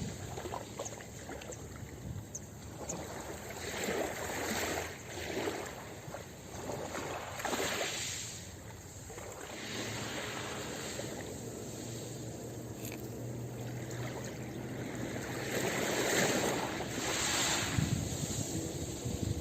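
Ocean waves breaking on a beach, the surf rising and falling in several swells of hiss and rush.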